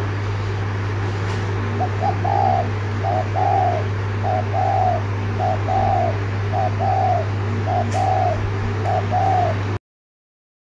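Spotted dove cooing in its repeated 'thúc gù' pattern: a short note followed by a longer one, about once a second, seven times, over a steady low hum. The sound cuts off abruptly near the end.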